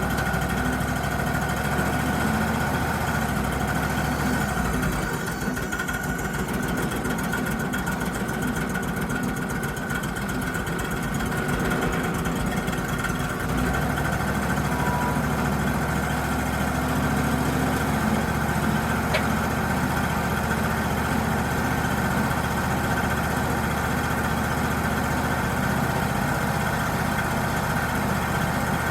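Wood-Mizer LT35 portable bandsaw mill running steadily while milling pine logs, its engine note shifting lower down for a stretch in the middle.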